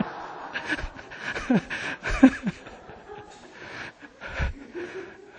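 A group of people laughing and chuckling in scattered bursts at a joke, dying down near the end.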